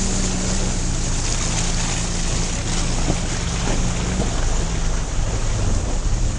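Off-road vehicle engine running steadily under heavy rushing wind or terrain noise, with a few faint knocks; one of its low tones fades out about four seconds in.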